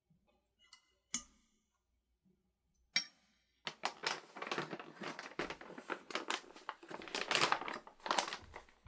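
Two light clicks, then about five seconds of dense crinkling and rustling, like something being handled or crumpled.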